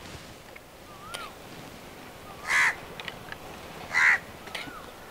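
A bird calling twice, two loud short harsh calls about a second and a half apart, with a few faint short chirps around them.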